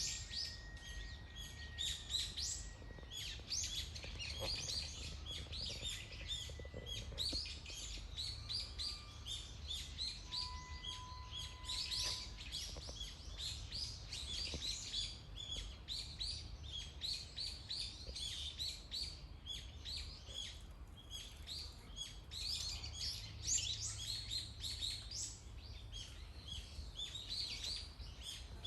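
Many forest birds chirping and calling at once, a dense chorus of quick high chirps with a few short whistled notes mixed in, over a low steady background rumble.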